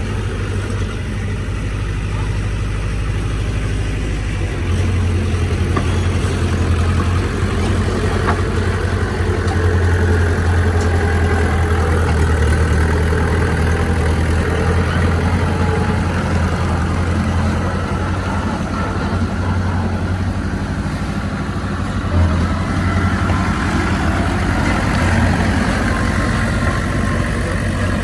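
Heavy diesel engine of earthmoving machinery running steadily under load. It gets louder about five seconds in and eases off a little after about twenty seconds.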